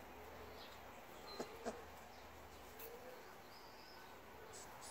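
Quiet outdoor ambience with faint, brief bird chirps, and two soft knocks close together about a second and a half in.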